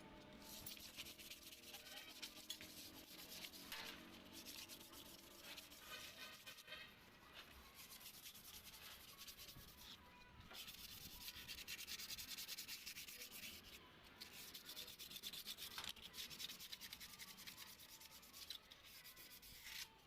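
Faint scraping and rubbing, coming in uneven stretches, densest from about ten to fourteen seconds in.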